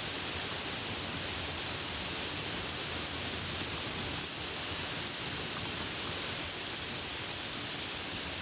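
Steady rain falling, an even hiss with no break and no thunder.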